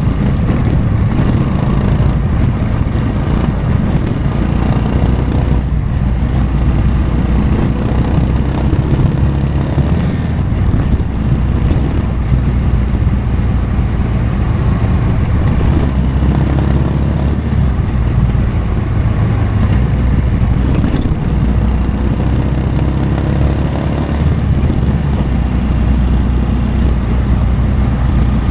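Motorcycle engine running steadily under way, its pitch drifting up and down a little with the throttle.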